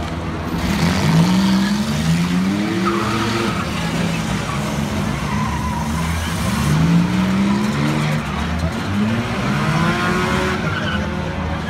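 Demolition derby cars' engines revving hard, the pitch climbing several times as the cars push and ram, with brief tyre squeals.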